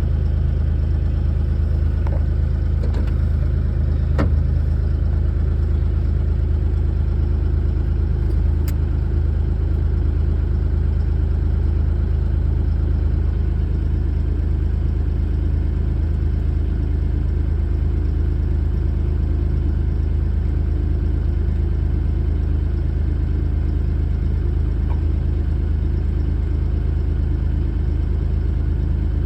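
Bobcat E35 compact excavator's diesel engine idling steadily while it warms up, with a few faint clicks in the first several seconds.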